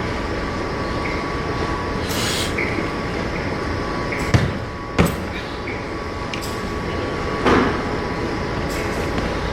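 Steady rumbling gym background with two sharp clanks of weights, about half a second apart, near the middle, and a duller knock near the end.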